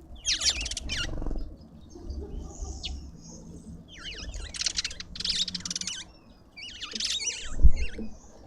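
Birds at a garden feeder giving harsh, rasping calls in several short bursts, with a dull thump near the end.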